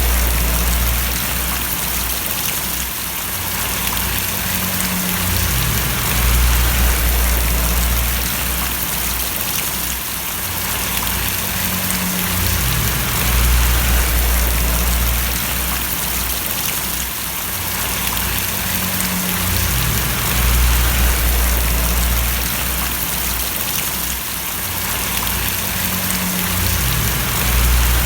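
Steady rain falling and splashing as a dense hiss of drops. A low rumble underneath swells and fades about every seven seconds.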